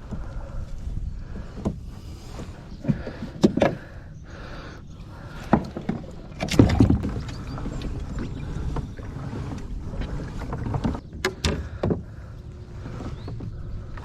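Irregular knocks and clunks on a plastic pedal kayak's hull, over a steady low rumble, with the loudest cluster of knocks about halfway through.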